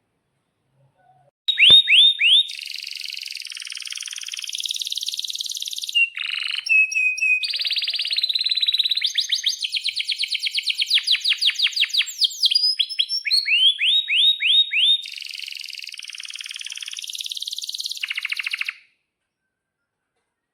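Domestic canary singing one long song of fast rolled trills and runs of rapid sweeping chirps, changing from one repeated note type to the next. It starts about a second and a half in and stops abruptly near the end.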